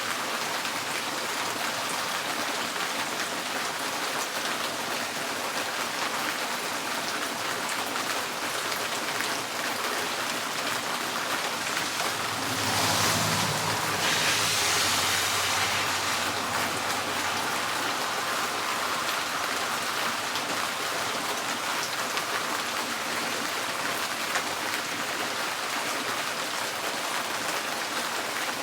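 Steady rain drumming on a tin porch roof, an even hiss of many drops. About halfway through, a louder rushing swell with a low rumble rises and fades over a few seconds.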